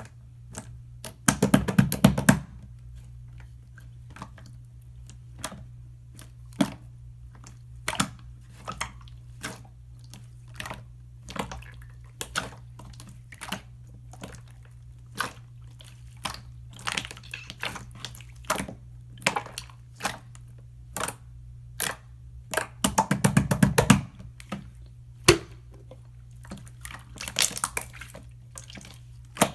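Irregular small clicks and taps of craft tools and containers being handled while marbling, with two short rattling flurries, about a second and a half in and again near 23 seconds, over a steady low hum.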